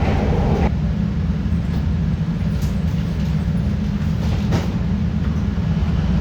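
CTA Red Line subway train running through the tunnel, a steady low rumble from the wheels and rails, with a couple of faint sharp clicks.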